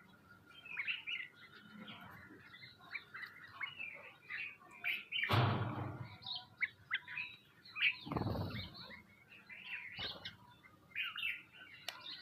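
A flock of small birds chirping busily, with two louder whooshes of flapping wings, about five and eight seconds in.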